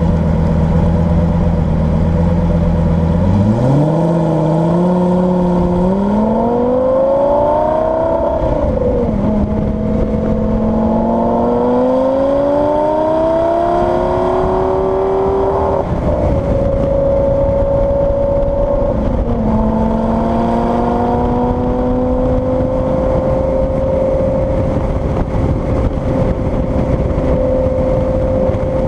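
Lamborghini Gallardo Superleggera's V10 engine idling, then pulling away, its note rising through the gears with three upshifts, each a sudden drop in pitch, before settling to a steady cruise for the last third.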